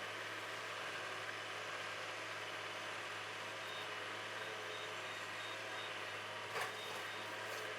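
Semi-truck engine idling steadily, a low hum with a hiss over it, and a short knock about six and a half seconds in.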